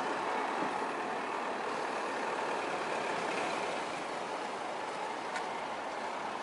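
Sea surf washing on a beach: a steady rushing of waves with no clear breaks.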